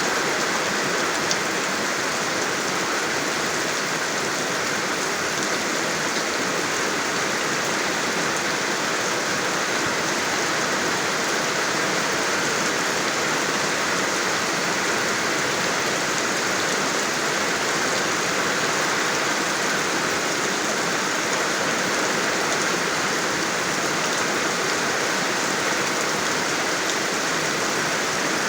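Steady rain falling on a surface, an even hiss with a few faint drop ticks.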